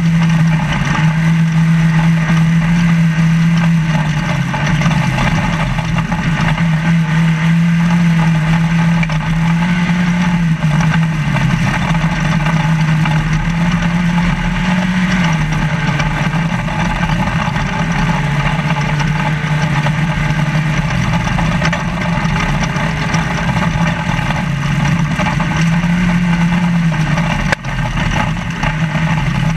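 Trophy Lite off-road race truck's engine running hard, heard from inside the cab, its revs stepping up and down every few seconds as it races over desert terrain, over a constant loud rush of drivetrain and road noise.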